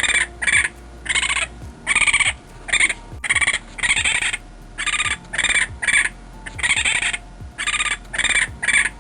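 An animal calling over and over: short, harsh, raspy calls, about two a second, coming in twos and threes.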